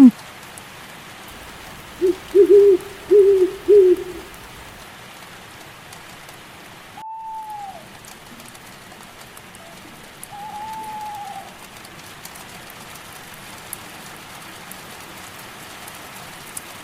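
Steady rain falling, with an owl hooting four times in quick succession about two seconds in, the loudest sound here. Later come two fainter single calls, each falling in pitch at its end, and the rain drops out for a split second about seven seconds in.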